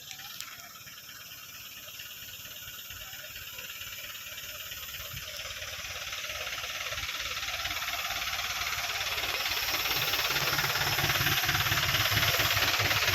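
A road vehicle approaching: steady engine and tyre noise with a hiss, growing gradually louder, the low rumble building through the second half.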